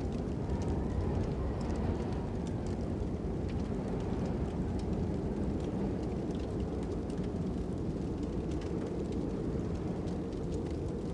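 Steady low wind rumble with scattered crackles and pops of a burning wood fire.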